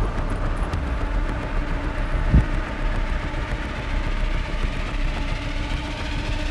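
Steady low mechanical rumble with a faint hum, broken by one short thump about two and a half seconds in.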